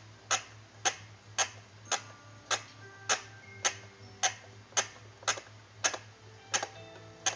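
Toy rescue helicopter clicking evenly, just under twice a second, with faint steady tones and a low hum between the clicks, as its winch is cranked to lift the figure.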